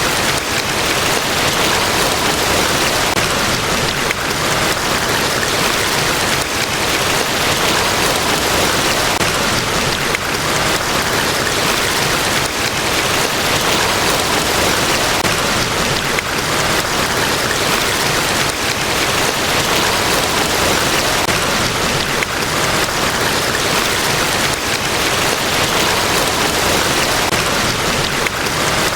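Niagara Falls: the steady, loud, unbroken rush of a large waterfall's falling water.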